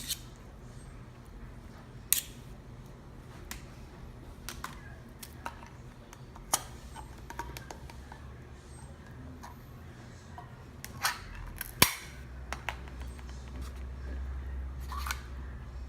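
Spoon clicking and scraping against a casserole dish as condensed cream soup is spread over chicken: scattered sharp clicks and knocks, the loudest pair a little past the middle. A low steady hum comes in about two-thirds through.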